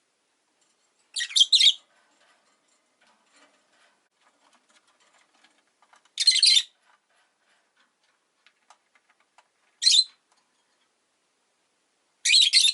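Rosy-faced lovebirds chirping: four brief flurries of high-pitched calls a few seconds apart, with faint small clicks between them.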